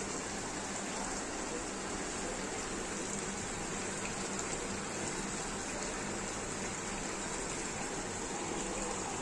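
Chicken pieces cooking in oily masala in a kadai on the heat: a steady hiss of sizzling and simmering, with a low hum underneath.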